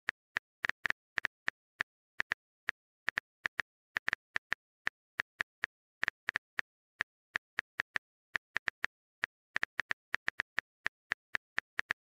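Smartphone on-screen keyboard click sounds typing out a text message: short sharp ticks at uneven spacing, about three or four a second.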